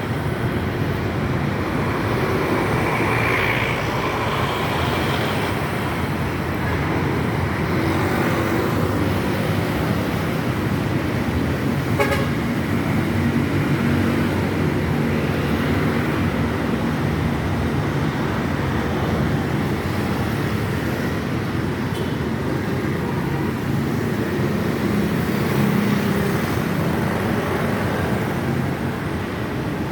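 Busy road traffic: a steady mix of vehicle engines and tyre noise, with a car horn tooting briefly a few seconds in.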